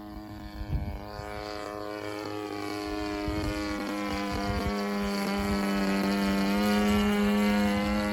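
The DLE 30 single-cylinder two-stroke petrol engine of an RC model airplane, running at a steady pitch as the plane flies past. It grows louder to a peak near the end, then begins to fade. A brief thump comes about a second in.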